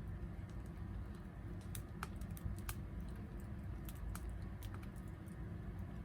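Wood fire crackling: irregular sharp pops over a low, steady rumble.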